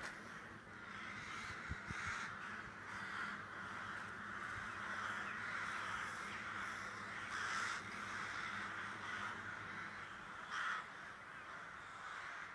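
Crows cawing repeatedly, harsh calls coming every second or so, over a faint low steady hum.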